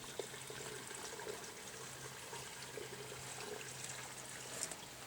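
Gasoline trickling and pouring from a gas can into the old Chevrolet truck's fuel tank, a faint steady flow.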